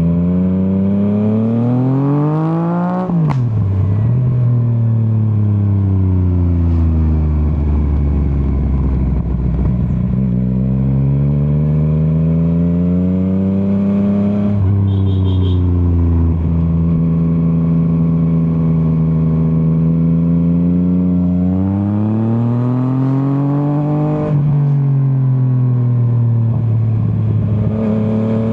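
Yamaha MT-09's three-cylinder engine under way, revving up through the gears. Quick upshifts come about three seconds in, again near the middle and about four seconds before the end. In between it eases off with some crackling off the throttle, holds a steady cruise for a stretch, then pulls hard again.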